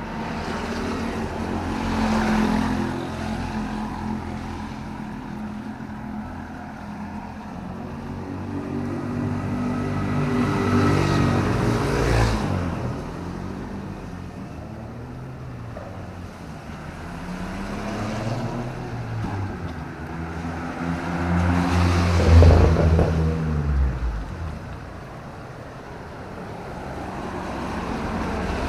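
Several motor vehicles passing one after another on a wet city road, each engine note swelling and falling away over a steady hiss; the loudest pass comes about 22 seconds in.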